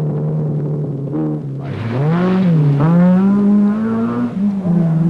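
Rally car engine revving hard. It gets louder about two seconds in, its pitch dips briefly as it changes gear, then it climbs again and holds high.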